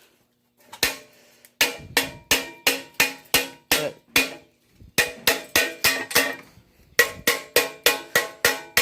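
Chipping hammer striking a fresh arc weld on steel to knock off the slag: sharp, ringing metal strikes, about three a second, in runs with short pauses between.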